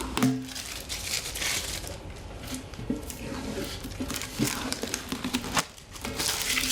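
Protective vinyl film being peeled off a Flame Stove MAX fire pit, crinkling and tearing in irregular short bursts.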